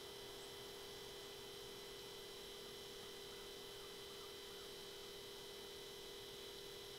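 Faint steady electronic hum with a higher whine held at one pitch, and nothing else happening.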